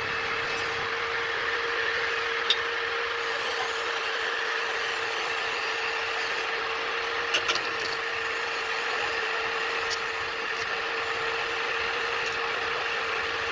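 Steady machine noise: an even hiss over a constant hum, with a few sharp clicks.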